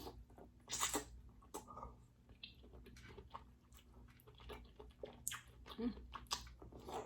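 Close-miked eating of king crab legs in garlic butter sauce: wet chewing and biting, smacking and clicking mouth sounds, with a louder crackle about a second in.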